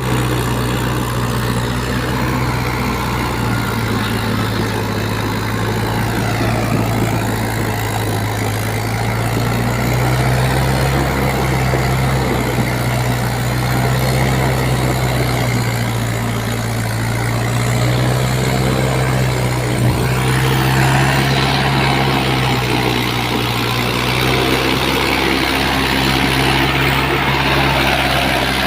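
Mahindra 575 tractor's diesel engine running steadily under load, with a low, even drone; about two-thirds of the way through it grows a little louder and harsher.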